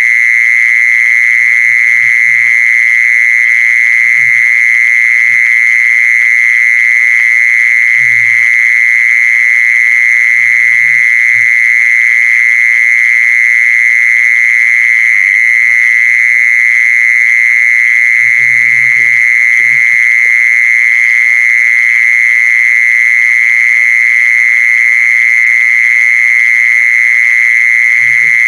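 Mole cricket calling: one continuous, steady high trill that never breaks or changes pitch. Faint short low sounds come and go beneath it.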